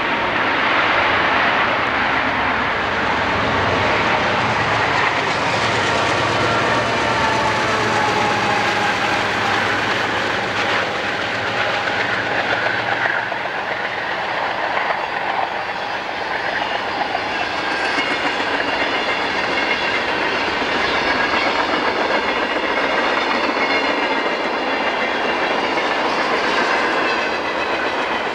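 Diesel-hauled freight train passing close by at speed, loud and steady.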